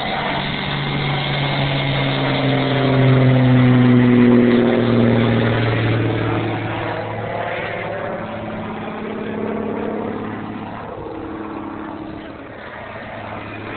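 Radio-controlled monster truck's motor running under throttle, its pitch gliding down as it grows to its loudest about four seconds in, then fading away.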